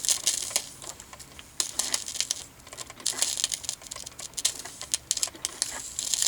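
Drip coffee maker brewing, with irregular crackling and sputtering ticks.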